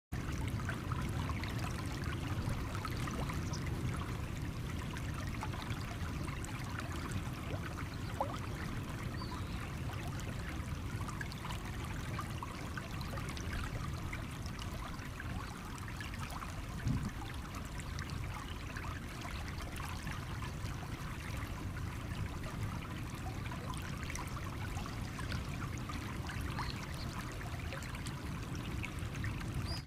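A small stream flowing steadily over stones, with a continuous trickling and splashing.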